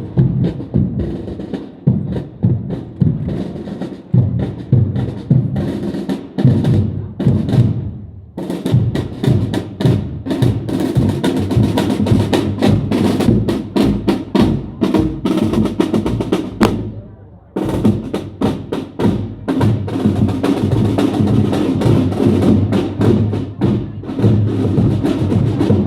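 A marching band playing in a parade procession, with drums beating a steady rhythm under pitched instruments; the playing drops out briefly twice.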